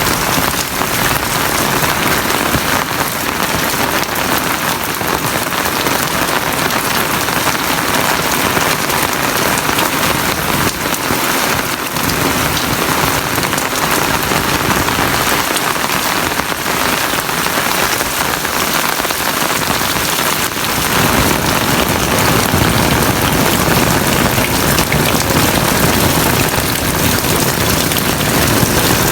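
Heavy rain pouring down steadily, with a deeper low rumble joining about two-thirds of the way through.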